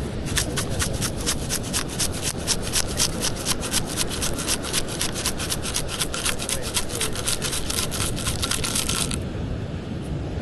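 Sand sifting through a sand scoop shaken back and forth to recover a buried target, in a fast, even rhythm of about five strokes a second that stops about nine seconds in. Steady wind noise underneath.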